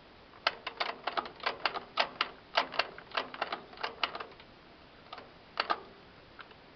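A rapid, irregular run of sharp clicks and clacks from the controls of a parked, silent tractor being worked by hand, lasting about four seconds. A few more clicks come about five seconds in.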